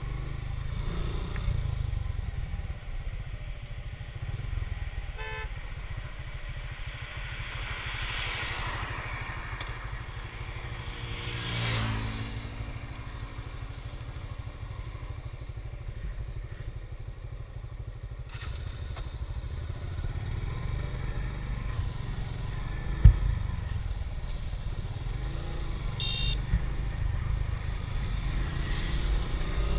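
Motorcycle on the move: steady low rumble of the engine and wind on the microphone. Another vehicle passes about midway, and there is a sharp knock about three quarters of the way through. Two short beeps come, one early and one late.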